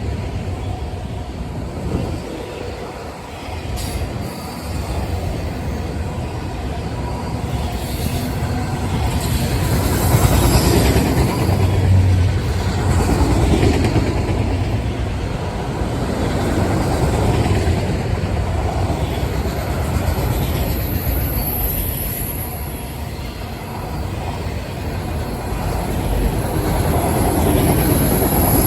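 Freight train cars rolling past, a steady rumble with wheel clatter and brief high-pitched wheel squeal in the second half.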